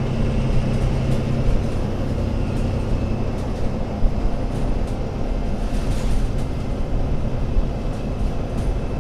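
Diesel engine of an Alexander Dennis Enviro500 MMC double-deck bus running under way, with a steady low engine note over road and running rumble. The engine note fades out about a second and a half in, leaving the rumble.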